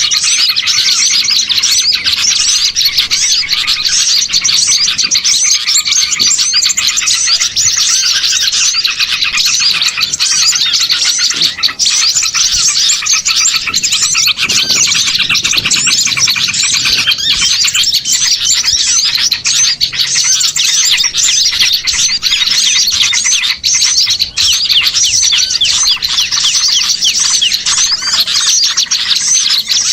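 Bird-lure recording of many small songbirds chirping and twittering over one another in a dense, busy chorus that never lets up.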